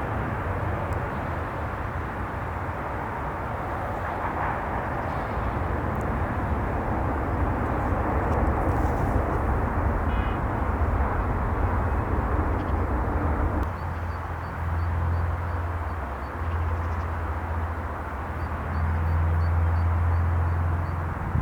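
Boeing 747 jet engines heard outdoors as a steady broad rush with a low rumble. About two thirds of the way through, the higher part of the noise fades and mostly the low rumble remains.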